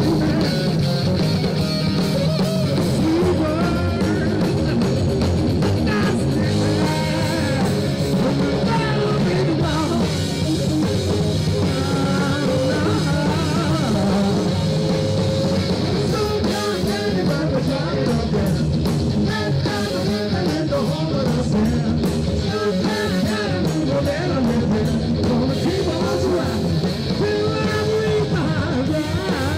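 Live rock band playing: electric guitar, drum kit and a singer's vocals.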